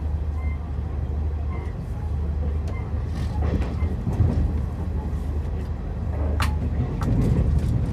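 Passenger train running along the rails, heard from inside the carriage: a steady low rumble with occasional faint clicks, and a sharp click about six and a half seconds in.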